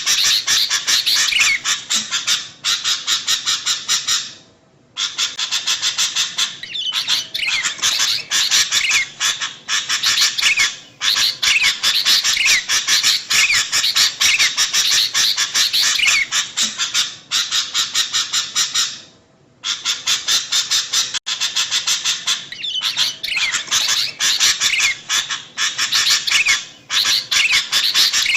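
Sooty-headed bulbuls (kutilang) chattering noisily in a dense, rapid stream of short calls and chirps, broken by a few short pauses.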